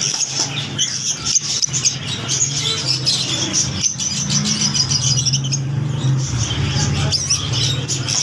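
Many small caged birds chirping at once, a dense high twittering. A low steady hum joins it about three and a half seconds in.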